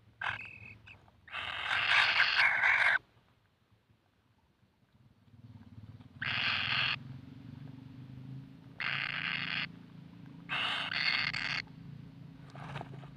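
Kingfisher chick giving harsh, hissing screeches in separate bursts of about a second, five or six times, with a longer one near the start. A low steady hum runs under the later calls.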